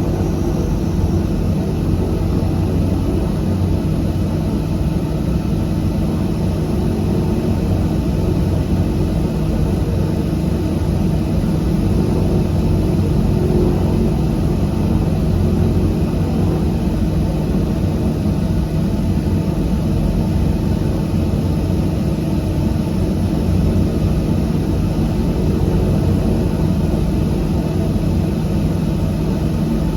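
De Havilland Canada DHC-6-300 Twin Otter's two PT6A turboprop engines and propellers running, heard from inside the cabin as a loud, steady drone that holds even throughout.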